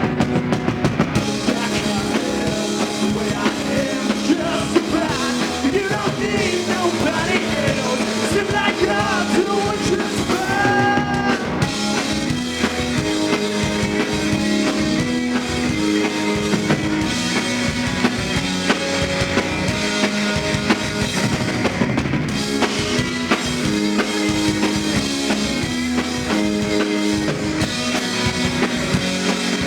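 A live rock band playing a song: drum kit keeping a steady beat under guitar and bass, with a wavering melody line standing out about six to twelve seconds in.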